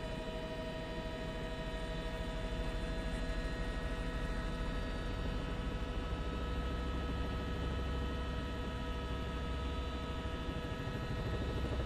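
Steady drone of a helicopter's engine and rotor heard through the cabin microphone: a low, fast-pulsing rumble under a whine made of several steady tones.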